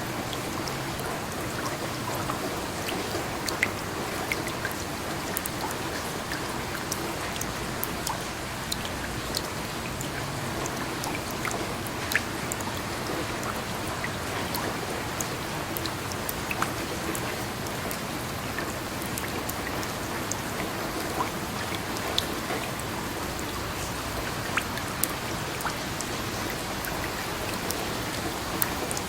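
Steady rain falling, with a constant hiss and many scattered individual drops ticking sharply on a surface.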